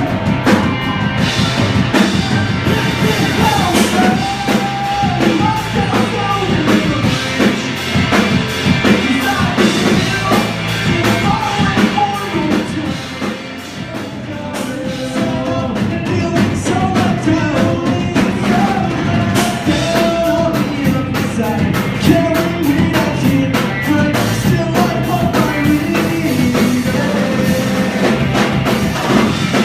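Rock band playing live: drum kit, electric guitar and bass under a sung lead vocal. The music briefly dips in loudness about 13 seconds in before it picks back up.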